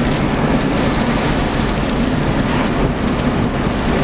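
Heavy rain falling on a moving car, heard from inside: a loud, steady, dense hiss with a low rumble underneath.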